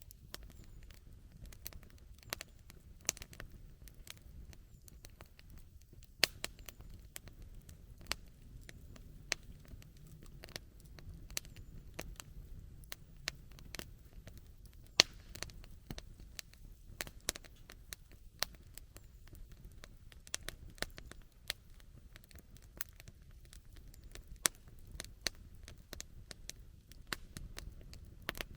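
Wood campfire crackling: irregular sharp pops and snaps, a few of them much louder, over a faint low rumble.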